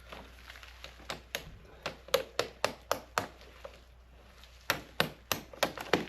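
Two runs of quick, sharp knocks, three or four a second: the first from about a second in, the second near the end.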